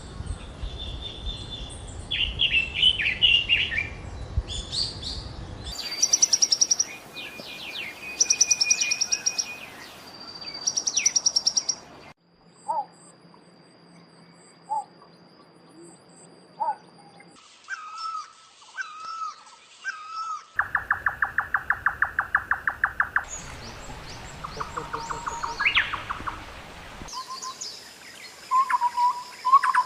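Small songbirds singing and calling in a string of short recordings spliced together, each lasting a few seconds before it cuts abruptly to another bird. The birds give whistled phrases, chirps and fast trills; one stretch near the middle is a rapid run of evenly repeated notes.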